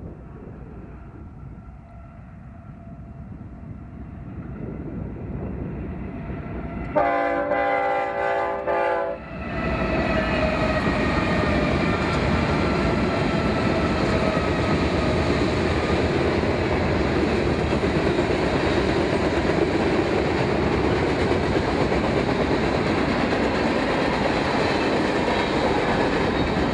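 A train approaches with a rising rumble. About seven seconds in, its horn sounds a multi-note chord for about two seconds, then the train passes close and runs loud and steady.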